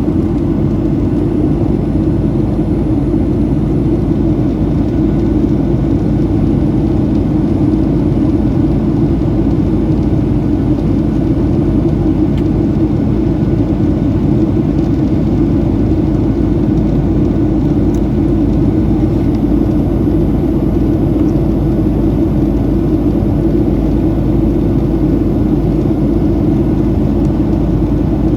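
Steady cabin drone of a Boeing 737-700 in flight, its CFM56-7B engines and the rushing air blending into one even, low hum.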